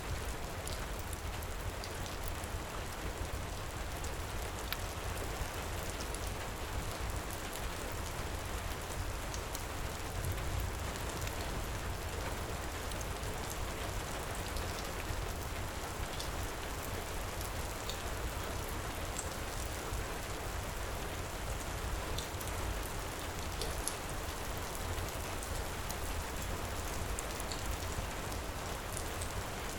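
Heavy rain pouring steadily with a deep low rumble, with scattered small crackles and pops from a fireplace fire.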